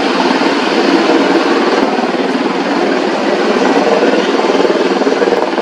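AH-64E Apache attack helicopter in flight, its rotor giving a fast, steady beat that runs through the whole sound.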